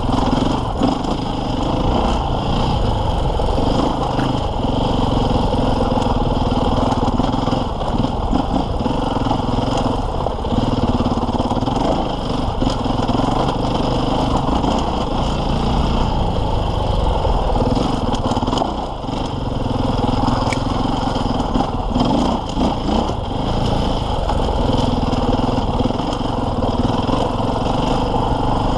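KTM 450 EXC enduro bike's four-stroke single-cylinder engine running under load, the throttle opened and closed every few seconds.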